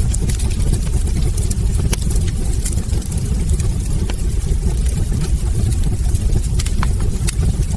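Wood fire burning in a fireplace: a steady low rumble with frequent small crackles and pops, a few sharper ones standing out.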